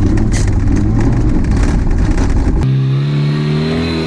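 Car engine running, with loud rough rumbling for the first two and a half seconds. It then switches abruptly to a steady engine hum.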